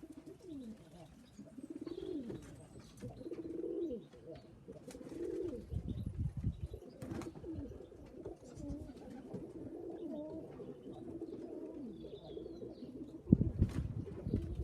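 Loft pigeons cooing again and again, low and overlapping. A few sharp clicks, and two spells of low rumble, the louder one starting near the end.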